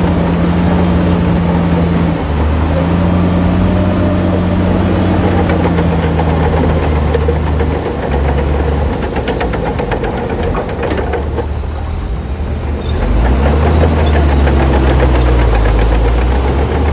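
Heavy diesel engine of earthmoving machinery running under changing load, its note shifting a few times and climbing about two-thirds of the way through, with a stretch of metallic clanking in the middle.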